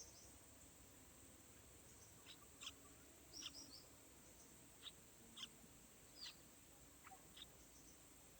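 Faint, short, high-pitched bird chirps, about a dozen scattered through the stretch from about two seconds in, a few of them with a quick downward slur.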